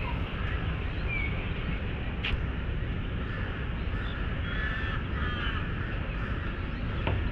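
Birds calling in short repeated calls over a steady low rumble of city background, with a sharp click about two seconds in.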